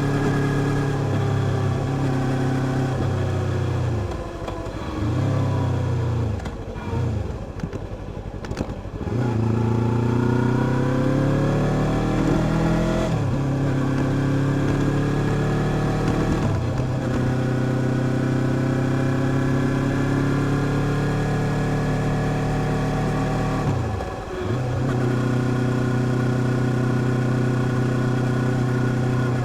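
A car engine running while driving. Its pitch climbs as it accelerates and steps down at gear changes. It eases off and picks up again a few times, near the start, for a few seconds in the first third, and once more near the end.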